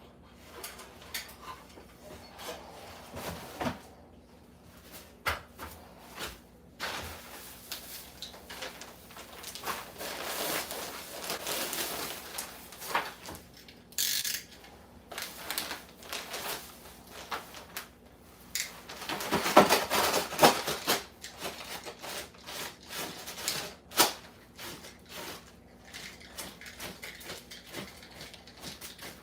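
Irregular knocks, clicks and scraping of hand work with tools and materials, with a louder stretch of scraping a little past the middle.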